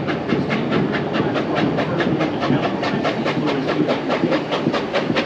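Reading T-1 steam locomotive hauling the train, its exhaust chuffing in an even rhythm of about four to five beats a second over the steady rumble of the moving train.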